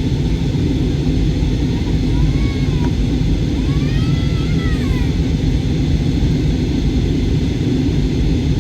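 Steady low roar of a jet airliner's engines and rushing air, heard from inside the passenger cabin during the climb after takeoff.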